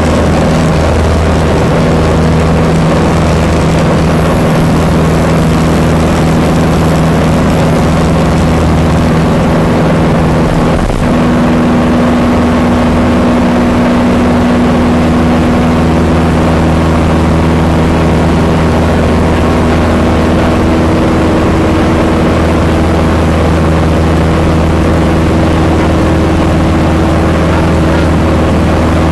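Cessna 182 piston engine and propeller running with a loud, steady drone. Its tone shifts slightly about eleven seconds in.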